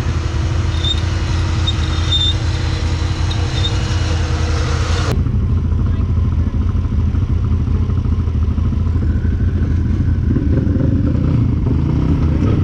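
Can-Am 1000 side-by-side engine running steadily. Its higher hiss and a steady tone cut off abruptly about five seconds in, leaving the low engine hum going on.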